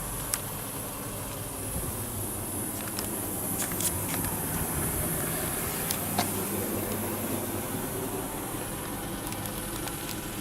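Mitsubishi Fuso Canter truck's diesel engine idling steadily, with a few light clicks.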